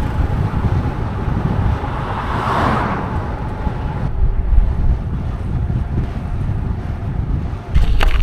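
Wind rumbling on the microphone, with a swell of noise about two and a half seconds in and the rumble jumping louder near the end.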